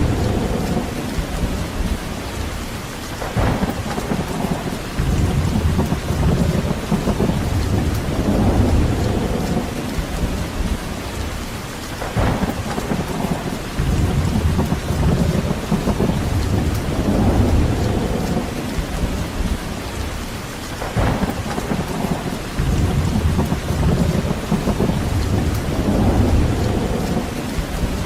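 Steady rain, with low rumbling that swells and fades every few seconds: rain and wind through trees.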